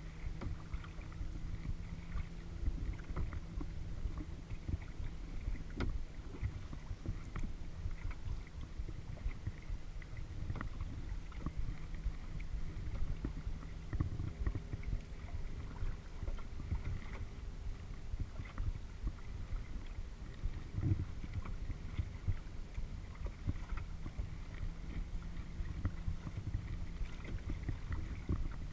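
A kayak being paddled: water splashing and lapping against the hull, with frequent small knocks over a steady low rumble.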